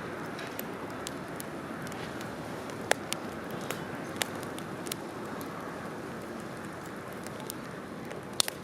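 Wood campfire burning with a steady rushing and scattered sharp crackles and pops, the loudest about three seconds in and a quick pair near the end.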